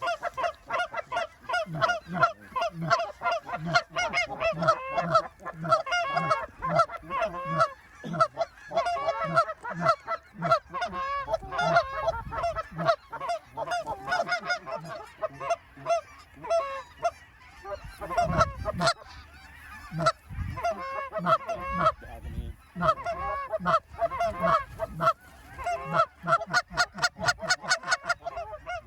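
A large flock of geese, specklebellies (greater white-fronted geese) among them, calling without pause: many overlapping high yelps and honks. A few low thumps come through about two-thirds of the way in.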